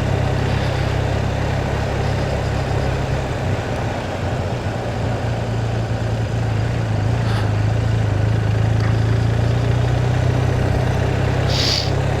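Motorcycle engine running at a steady pace while riding, a constant low drone with wind rushing over the microphone.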